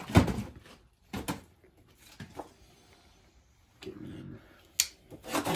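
A few sharp knocks and clicks, irregularly spaced, with the loudest just after the start, like tools and parts being handled during engine work.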